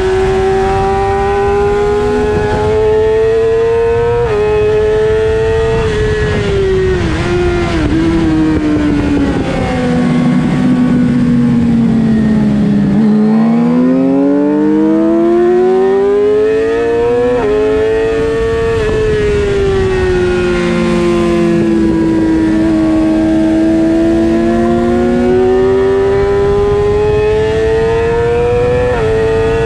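Onboard sound of a Suzuki GSX-R600 race bike's inline-four engine at racing speed, heard over wind rush. It pulls hard with a quick upshift about four seconds in, then winds down through several stepped downshifts to its lowest revs about halfway. It climbs again through stepped upshifts, eases off a little, and revs up once more, shifting up near the end.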